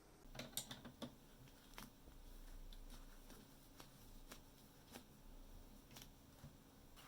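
Faint light clicks and taps of small parts or tools being handled: a quick run of clicks in the first second, then single clicks about once a second.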